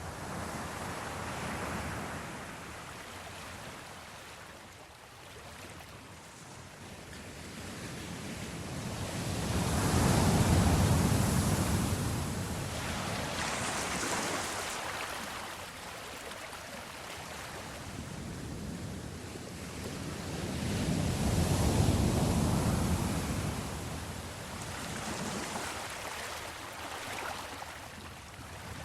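Sea waves washing against a ship, in slow swells that peak about ten and twenty-two seconds in.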